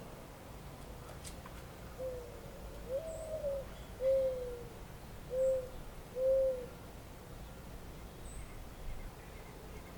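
An owl hooting: a series of about five hoots, each arching up and down in pitch, the middle ones loudest, over a faint steady outdoor hiss.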